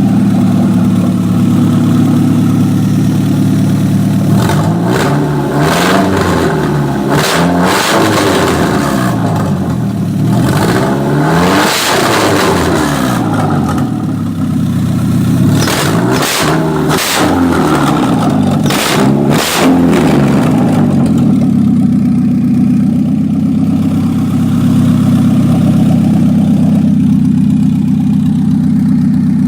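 Honda H23A 2.3-litre inline-four, swapped into a Honda Civic, idling, then revved in a series of quick throttle blips, its pitch rising and falling, from about four seconds in to about twenty seconds in, before settling back to a steady idle.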